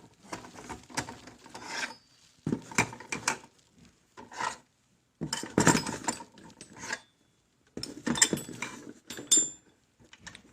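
Bi-metal hole saws and impact arbors being handled in their carry case: clinks, knocks and scraping rubs in several short bouts with brief pauses between them.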